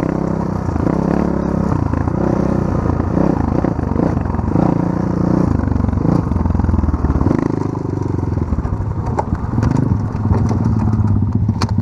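Small off-road motorcycle engine running at low revs, its pitch rising and falling with the throttle over rough ground, with some clatter and a few sharp knocks near the end.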